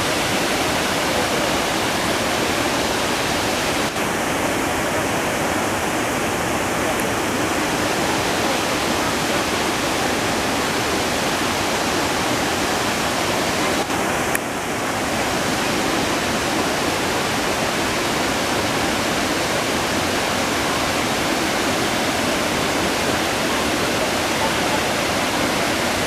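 Steady, loud rush of falling water from a mountain waterfall, dipping briefly twice, about four and fourteen seconds in.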